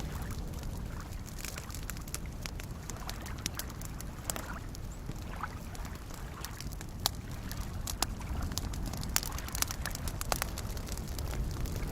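Wood campfire crackling with scattered sharp pops, the loudest few coming about a second apart in the second half, over a low steady wash of small lake waves.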